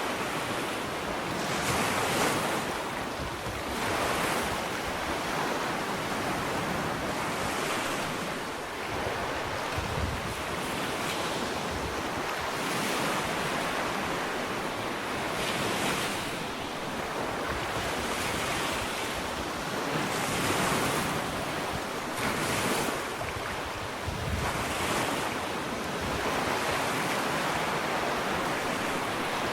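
Gentle ocean waves lapping on a sandy shore: a continuous wash of surf that swells with each breaking wave every two to three seconds.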